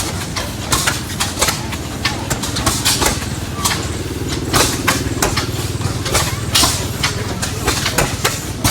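Several antique stationary gas engines running at once, their exhausts firing in sharp, uneven pops over a steady low engine rumble.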